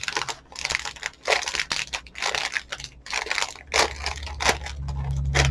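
Crinkling and crunching of a small cereal box's packaging and the dry cereal inside being handled, in irregular crackles. A low steady hum comes in near the end.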